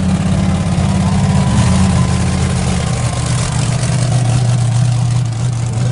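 Raminator monster truck's big engine idling, a loud, steady low rumble.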